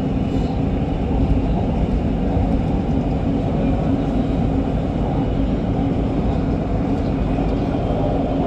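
MRT Kajang Line metro train running at speed between stations: a steady rumble of wheels on the rails with a constant hum.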